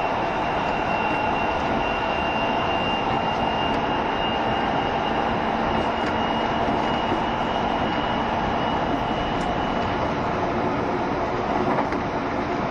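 JR Shikoku 7200 series electric train running at speed, heard from on board: a steady rolling rumble with a high steady whine that fades out about ten seconds in.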